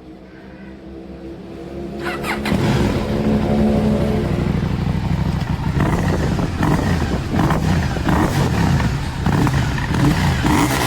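KTM 790 Duke's parallel-twin engine, quieter for about two seconds, then loud and revving with its pitch rising and falling again and again.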